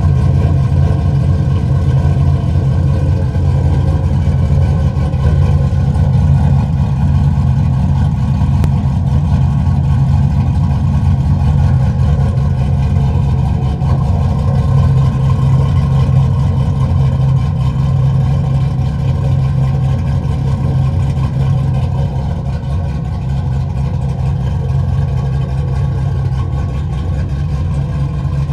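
A 6.0-litre LS V8 with an aftermarket camshaft, swapped into a GMC Syclone pickup, idling steadily, heard through its exhaust.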